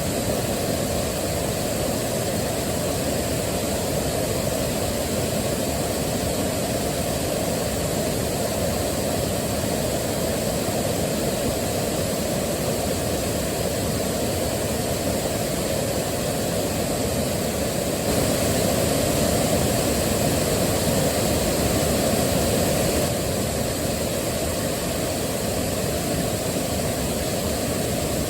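Waterfall: a steady rush of falling water, a little louder for a few seconds about two-thirds of the way through.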